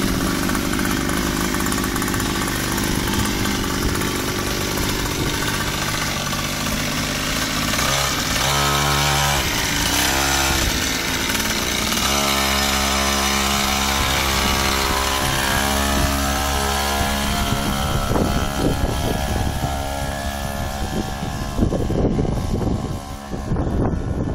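Mini bike's small engine running. It revs up and down a few times, then holds a steady pitch, and changes near the end.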